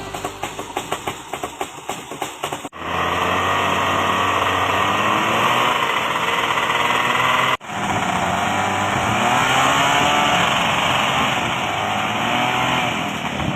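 A small engine running: a fast, even pulsing at first. Then, after a sudden cut, it runs louder with its pitch wavering up and down, and a second cut brings another stretch of the same.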